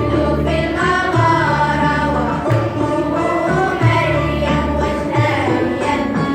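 Group of school children singing an Arabic nasheed together, over instrumental accompaniment with a steady low beat about every second and a quarter.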